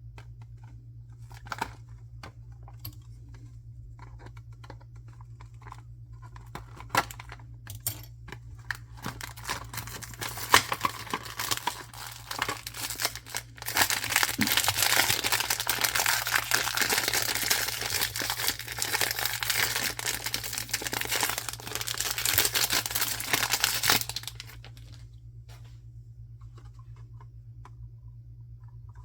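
Packaging being unwrapped: scattered crinkles and clicks, then about ten seconds of continuous tearing and crinkling that stops suddenly a few seconds before the end.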